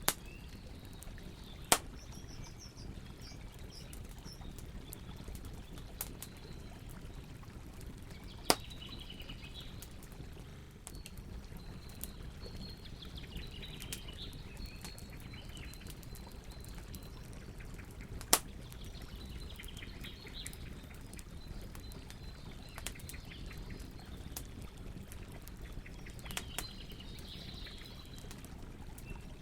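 Campfire burning with a steady low hiss and a few sharp crackling pops from the wood, while small birds chirp and twitter in the background several times.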